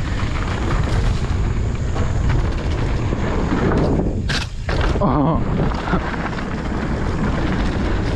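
Mountain bike rolling fast over rough, rocky trail: a steady heavy rumble of tyres and wind buffeting the camera's microphone. About four seconds in there is one brief sharp hit as the rider's head strikes a tree, followed by a short startled 'oh'.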